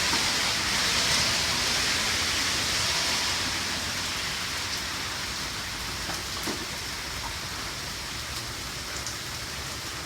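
Heavy rain pouring down: a steady, dense hiss that slowly grows a little quieter.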